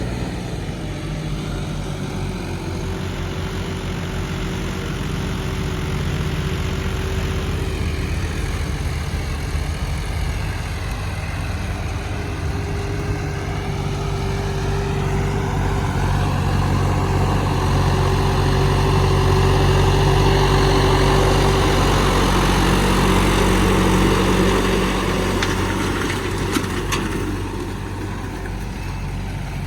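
John Deere 5405 tractor's diesel engine running steadily. It grows louder from about halfway through, then drops back near the end.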